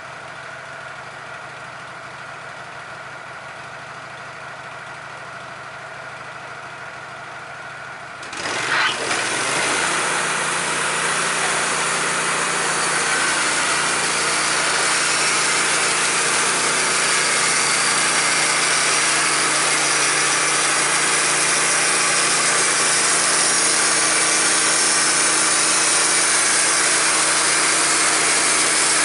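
Sawmill engine running at idle, then about eight seconds in the sound jumps much louder as the saw blade runs into an 8x8 timber and cuts steadily along it.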